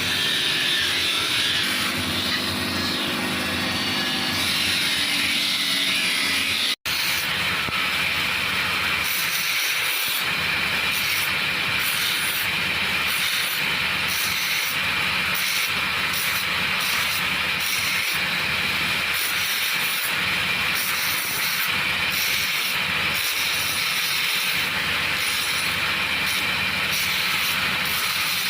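Steady rushing noise of a machine running continuously, like a power tool at work, with a split-second dropout about seven seconds in.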